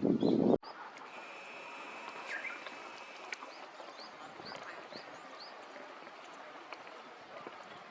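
A small songbird repeating short, high, arched chirps about two a second over quiet outdoor ambience. A loud rushing noise stops abruptly about half a second in.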